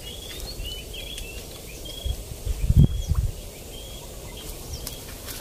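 Small birds chirping, short high notes repeated every half second or so over a steady outdoor background. Around the middle a few low bumps and a brief rumble, such as from wind on or handling of the microphone.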